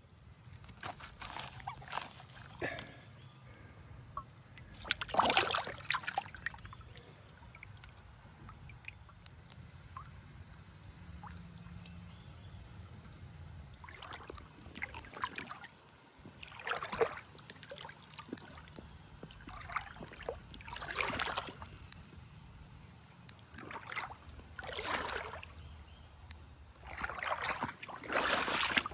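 Paddle strokes in swamp water from a small boat: a splash and slosh every few seconds, irregularly spaced, with water trickling and gurgling between strokes.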